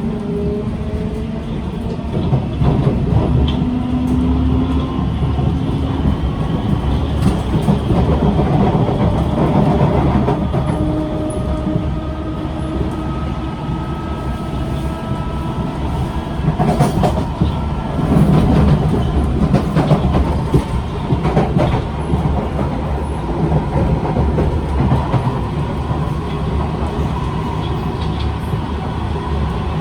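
Inside a Kawasaki C151 metro train running between stations: a steady rumble of wheels on rail with several whining tones that slowly glide in pitch, and scattered knocks and rattles as the car shakes on a very bad suspension.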